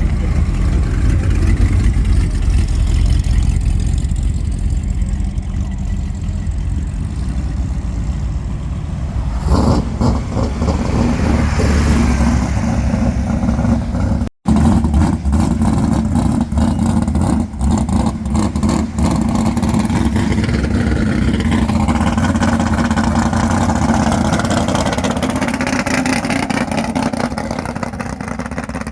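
Loud car engine running and revving with a deep low rumble, its sound shifting about a third of the way in and breaking off for an instant near the middle.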